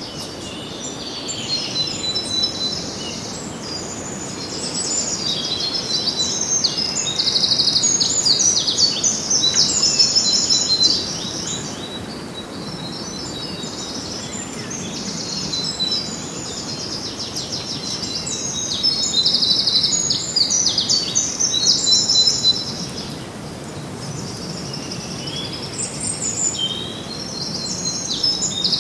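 Several small songbirds chirping and singing in quick, trilled phrases, a dawn-chorus-like mix, over faint outdoor background noise. The singing swells twice, about a quarter of the way in and again past the middle.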